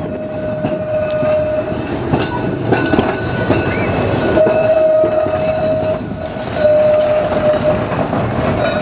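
Heritage tram running on its track: a steady tone that comes and goes over the rumble of the wheels, with a few sharp clicks from the rails.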